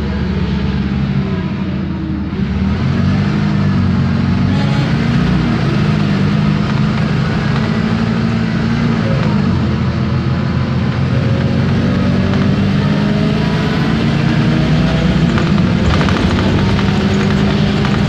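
Onboard sound of a 2012 Isobus City 1200 city bus: its MAN D0836 six-cylinder diesel runs under load while the ZF Ecomat automatic gearbox and differential whine. There is a brief dip and change in pitch a couple of seconds in, and over the second half the whine rises steadily as the bus gathers speed.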